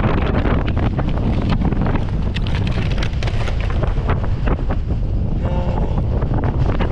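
Strong wind buffeting the microphone in a loud, steady rumble, with scattered short rattles and clicks.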